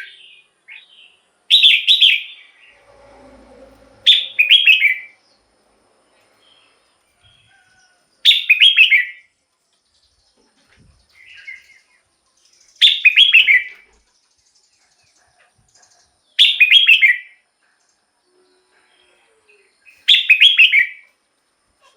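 Red-whiskered bulbul singing: six short, loud, warbling phrases of about a second each, repeated every three to four seconds.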